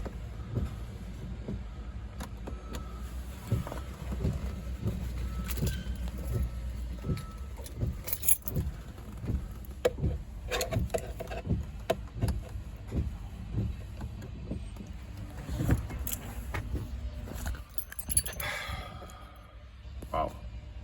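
Irregular clicks and rattles, one or two a second, over a steady low rumble, with a short wavering tone about three-quarters of the way through. These are the sounds of a BMW X3 that will not start; no engine runs.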